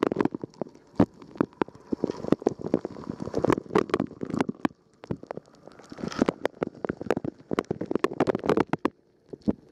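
Water spraying and splashing inside a running Rosenlew dishwasher, heard from inside the tub: an irregular patter of sharp splats and knocks as the jets strike, over a sloshing gurgle, with brief lulls about halfway through and near the end.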